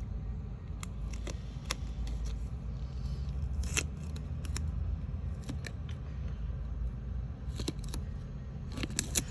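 Scissors snipping through paper or card in short, sharp cuts at irregular intervals, with a quick cluster of snips near the end, over a steady low rumble.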